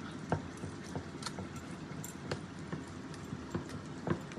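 A few light clicks and taps of kitchen utensils over a steady background hiss.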